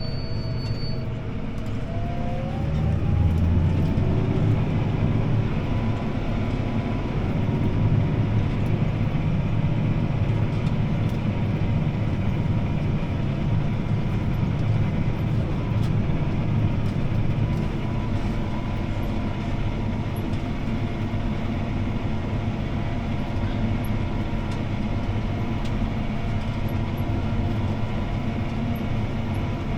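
CLAAS ARION 650 tractor's six-cylinder diesel engine heard from inside the cab. Its pitch rises over the first few seconds as it revs up, then it runs steadily under the load of a disc harrow.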